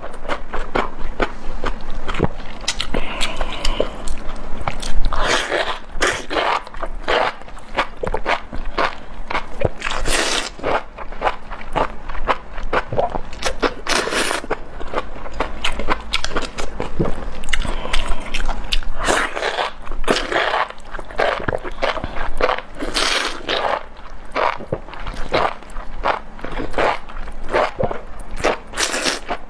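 Close-miked chewing and biting of spicy enoki mushrooms, with a dense run of irregular wet clicks and crunchy crackles.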